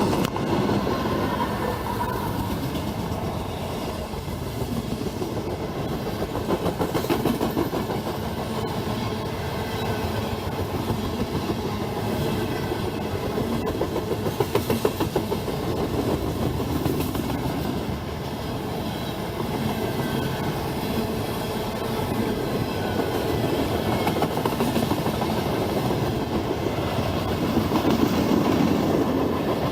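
CSX freight train rolling past, its wheels clattering steadily over the rail joints.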